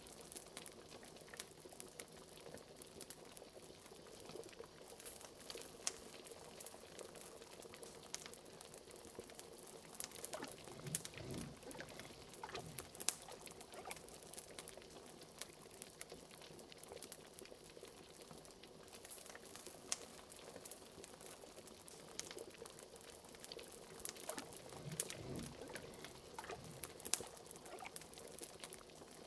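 Liquid bubbling steadily, as in a simmering cauldron, with many sharp little pops and clicks throughout. Twice there is a deeper, fuller bubbling swell: about a third of the way in and again near the end.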